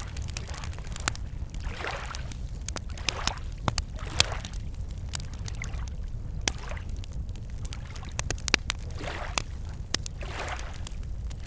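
Wood campfire crackling with many sharp pops, over small lake waves lapping the shore in soft swells every second or two, and a steady low rumble underneath.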